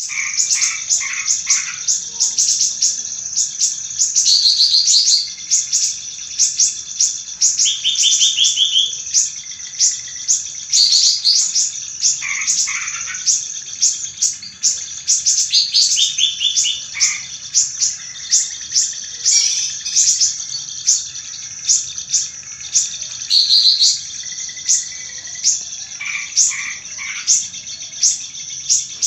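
Golden-bellied gerygone (sirih-sirih) song on a bird-keeper's lure recording: a dense, unbroken stream of rapid high chirps with short thin trills and brief falling phrases laid over it, several birds at once. It is played to make a silent caged bird answer.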